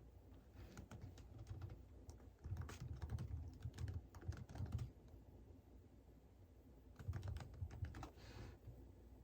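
Typing on a computer keyboard: three short runs of quick keystrokes with pauses between them.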